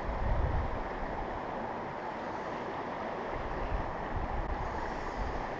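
Mountain creek water rushing steadily, with low gusts of wind buffeting the microphone near the start and again toward the end.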